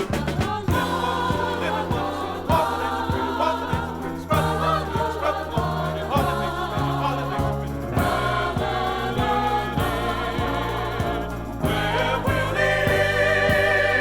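Gospel choir singing over a band with a steady drum beat and bass. The sound grows fuller and louder near the end.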